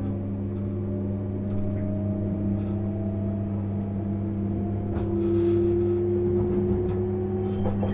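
JR 651 series electric train running, heard from inside the car: a steady low hum with motor tones rising slowly in pitch as the train picks up speed. There is a click near the end.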